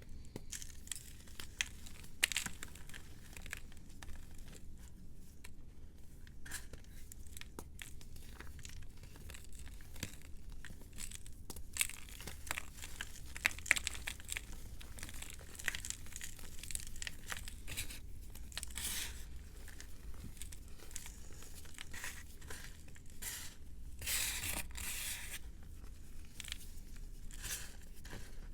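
A dry block of reformed, pressed powder being crumbled, with fine crackling and crunching and many small sharp snaps, and a longer rasping stretch near the end.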